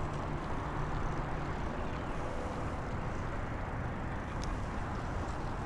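Steady road noise during a bicycle ride: wind and tyre hiss with motor traffic, and a faint click about four and a half seconds in.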